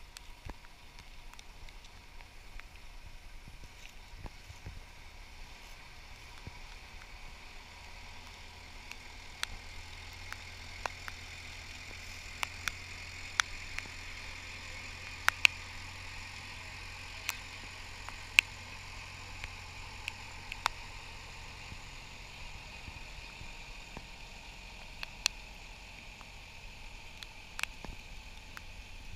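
Small narrow gauge locomotive running as it moves a train of passenger cars along the track, a steady low engine hum with a higher rushing noise that swells midway and scattered sharp clicks.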